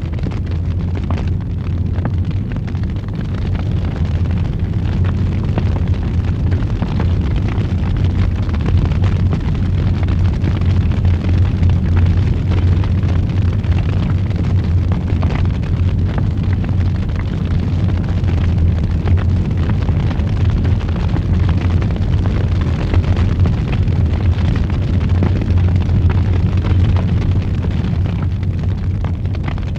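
Wood fire in a fireplace burning with a steady low roar and scattered faint crackles.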